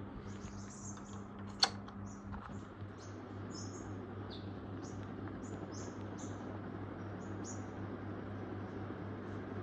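1984 DEMC ceiling fan running, a steady low motor hum under the rush of air, with the owner suspecting the motor set is a little loose. A single sharp click comes about a second and a half in, and short high-pitched chirps come and go through most of the first seven seconds.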